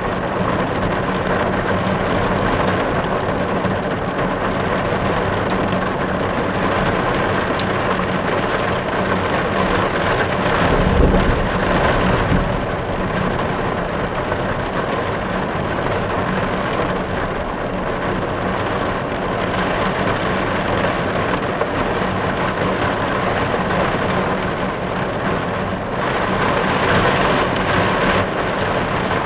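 Steady rain drumming on a car's roof and windows, heard from inside the car. A brief low rumble about eleven seconds in, and the rain sounds a little heavier for the last few seconds.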